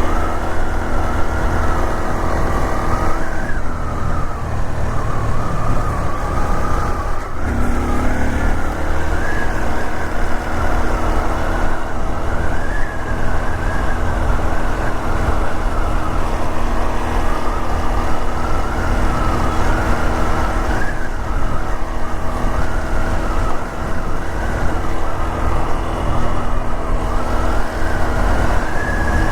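Honda Super Cub 125's air-cooled single-cylinder four-stroke engine running steadily on the move. The engine sound briefly drops off about seven seconds in, then picks up again.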